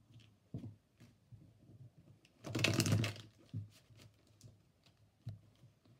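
Tarot cards being shuffled and handled: scattered light card clicks, with a short dense flurry of shuffling about two and a half seconds in.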